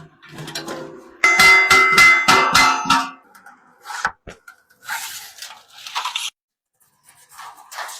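Hammer blows on brass sheet metal, a quick run of about eight ringing strikes, followed by a few short scraping sounds.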